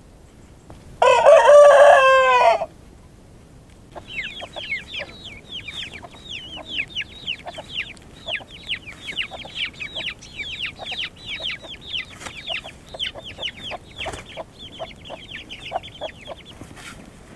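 A rooster crows once, loudly, its call falling in pitch at the end, about a second in. After a short pause comes a long run of quick, high, falling chirps, about three or four a second, which stops shortly before the end.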